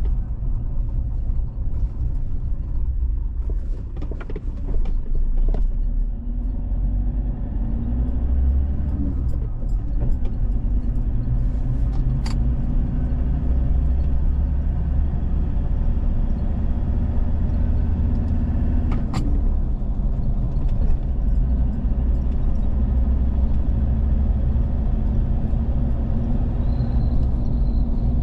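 Steady low rumble of a moving road vehicle's engine and tyres, heard from on board. Two sharp clicks come about twelve and nineteen seconds in.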